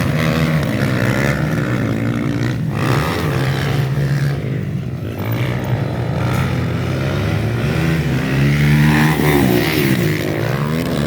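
Several motocross dirt bikes racing round the track, their engines revving up and down as riders accelerate and shift. Near the end two engines' pitches cross, one rising as another falls.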